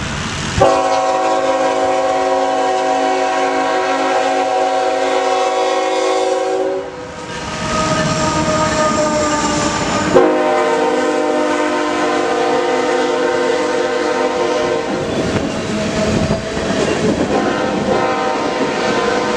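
Norfolk Southern freight locomotive's air horn sounding a chord in two long blasts, the second starting about ten seconds in, with weaker horn tones between them. The rumble and clatter of the passing train comes up behind the horn near the end.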